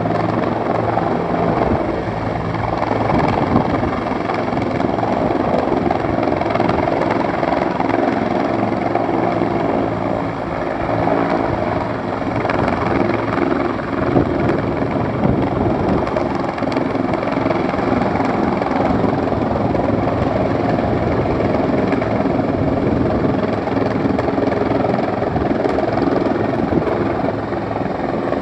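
Firefighting helicopter running steadily with a rapid rotor chop over its engine noise, holding at a steady level throughout.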